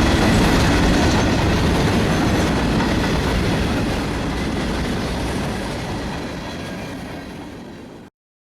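Freight train rolling past, its cars rumbling and clattering over the rails with a steady hiss, the sound fading gradually. It cuts off suddenly near the end.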